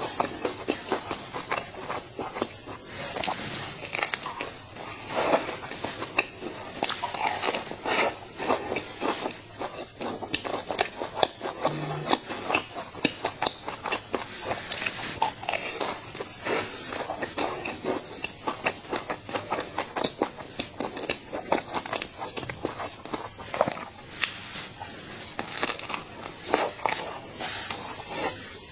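A person biting and chewing food close to the microphone: a dense run of short, crisp clicking mouth and food sounds.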